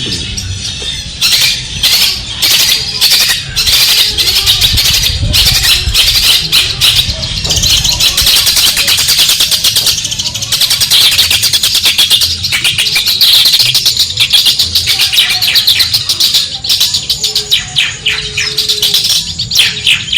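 Long-tailed shrike (cendet) singing a fast, continuous, scratchy chattering song of rapid high notes.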